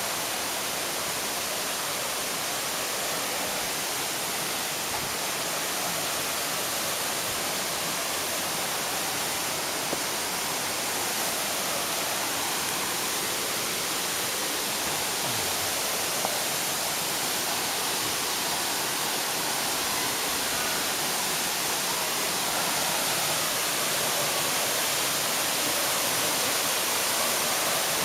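Waterfall rushing: a steady, dense hiss of falling water that grows slightly louder near the end.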